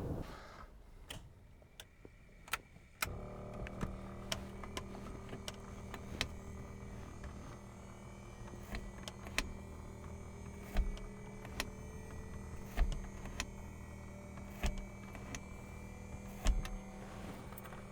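Piper Dakota's cockpit electrics switched on about three seconds in: a steady electrical hum with a faint whine slowly rising in pitch, as instruments and pumps spin up before engine start. Scattered sharp clicks of switches and controls run throughout.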